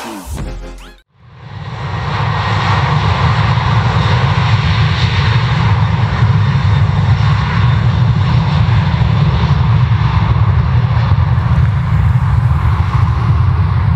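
Virgin Australia Boeing 737-800's CFM56 jet engines running, a loud, steady rumble with a hiss above it, starting about a second in once the intro music cuts off.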